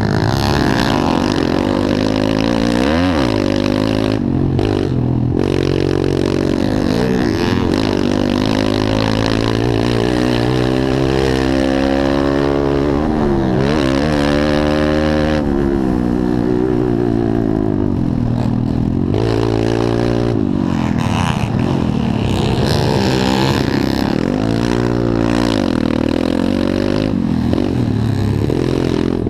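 Several pit bike engines revving hard, their pitch rising and falling again and again as the bikes accelerate, shift and back off, with more than one engine heard at once.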